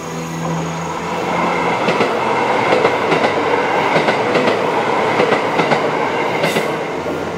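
Kyoto Tango Railway train running past close by, its wheels clattering over the rail joints in a quick, uneven run of clacks over a steady rushing rumble.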